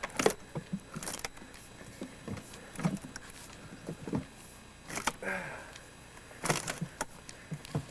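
Irregular sharp knocks and clatters, about half a dozen spread over the few seconds, with a short faint voice about five seconds in.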